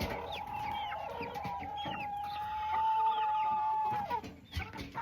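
Several hens clucking and giving short falling chirps close by. A steady tone runs under them for about four seconds and stops near the end.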